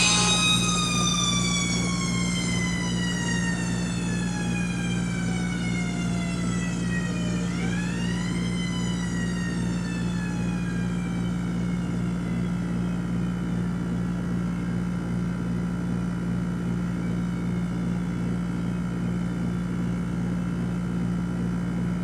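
Fire engine's Federal Q mechanical siren winding down, its falling wail gliding lower for several seconds. It is briefly spun up again a third of the way in, then coasts down and fades out, leaving a steady low hum.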